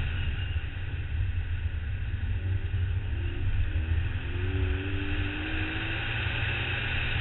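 BMW 135i's turbocharged straight-six pulling hard on track, its pitch climbing slowly, buried under heavy wind and tyre roar on the camera.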